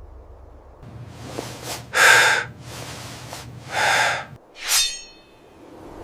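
Three loud, sharp breath sounds like gasps or snorts, about two seconds in, about four seconds in and just before five seconds, the first the loudest. A low rumble sits under them and stops after the second one.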